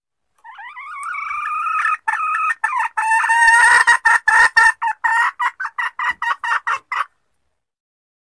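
Female junglefowl (hen) lure call, a call used to draw wild junglefowl cocks out of cover. It starts with a drawn-out call that rises and then holds for about a second and a half. A quick run of short clucks follows, about four a second, and stops abruptly.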